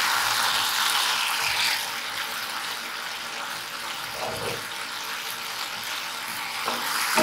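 Chopped onions and tomatoes frying in oil in a pan, a steady sizzle as the tomatoes soften, with a few light knocks near the end.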